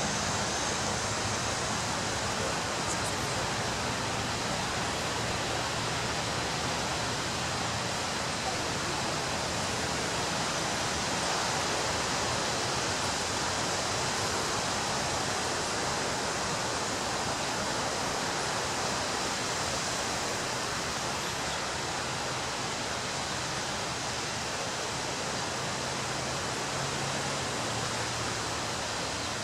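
Ocean surf making a steady, even rush of noise, with no single wave crash standing out.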